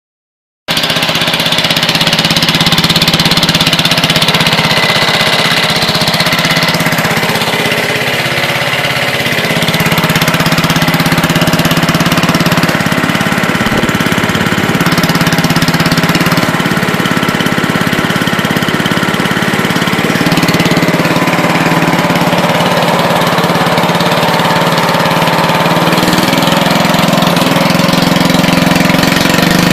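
Riding lawn mower engine running steadily through a straight-pipe exhaust, loud, cutting in suddenly just after the start.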